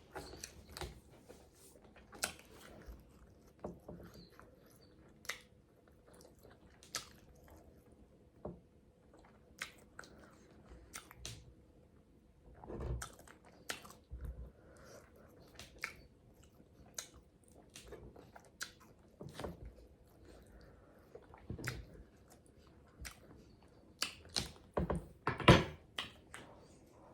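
Close-miked chewing and wet mouth smacking while eating salmon and asparagus, a run of short irregular smacks and clicks with a louder flurry near the end.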